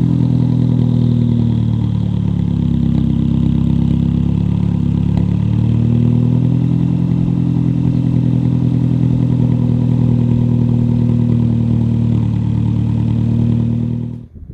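Saab Aero's B235R 2.3-litre turbocharged four-cylinder petrol engine running on diesel put in by mistake, held at steady revs. The revs sag slightly about two seconds in and pick up again about six seconds in. The sound cuts off abruptly near the end.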